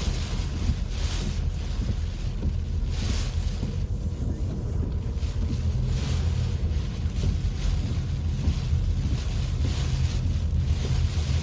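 Typhoon-force wind buffeting the microphone in a steady low rumble, with gusts that swell and fade in a higher rushing hiss every second or two.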